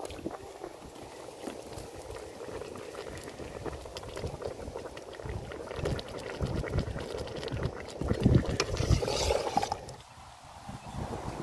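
Cooking pot bubbling at the boil, with a steady patter of small pops and intermittent low rumbles.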